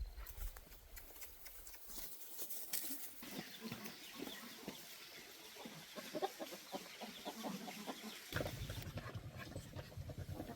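Chickens clucking, with many short scattered calls through the middle. A low rumble comes in near the end.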